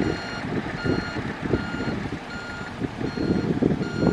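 Backup alarm of a heavy earthmoving machine beeping steadily, about one beep every 0.7 s, as it reverses. Under it, a diesel engine rumbles with irregular clanks.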